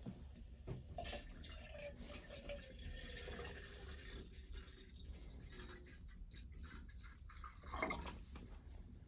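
Water dripping and trickling, with many small splashes and clicks and a louder burst about eight seconds in.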